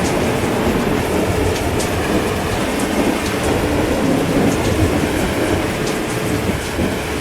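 Heavy rain falling steadily, with sharp drop splats, over a low rolling thunder rumble that slowly dies away.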